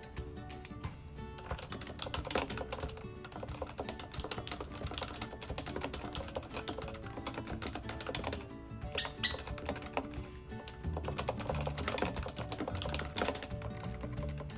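Rapid clicking of a computer keyboard being typed on, in runs with short pauses, over steady background music.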